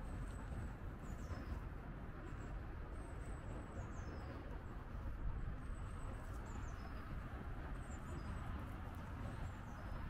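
Small birds giving short, high call notes that fall in pitch, a handful of times, over a steady low rumble.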